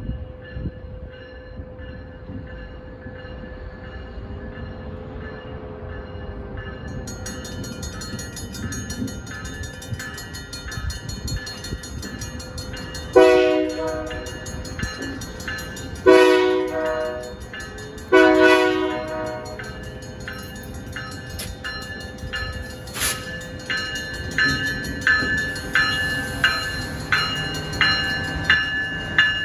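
Stockton Terminal & Eastern diesel train sounding its multi-tone air horn in three separate blasts of over a second each, with a bell ringing steadily. Near the end the wheels start clacking regularly over rail joints as the train passes.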